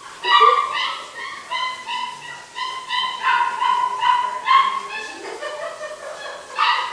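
Nearly six-week-old puppies whining and yelping in a rapid string of short, high-pitched cries.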